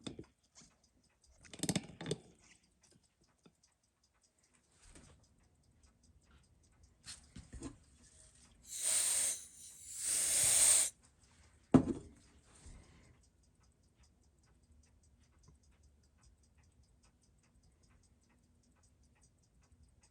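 Faint, even ticking of a Seiko 6139 chronograph movement picked up by a timegrapher, the beat of a freshly serviced mechanical watch. Two loud bursts of hiss come about nine and ten seconds in, followed by a single sharp click.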